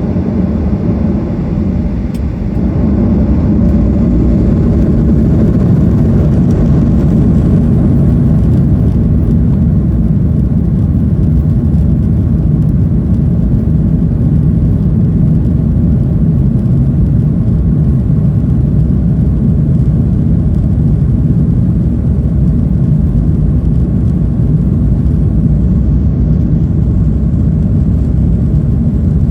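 Boeing 737-800's CFM56 jet engines and airframe noise heard inside the cabin: a loud, steady low rumble that grows louder about two to three seconds in and then holds.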